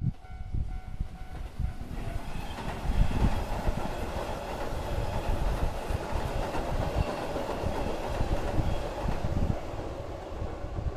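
Keihan electric train passing over a level crossing, its wheels clattering over the rail joints with a dense rush of noise building from about two seconds in and easing toward the end. The crossing's warning bell rings in short repeated dings at the start.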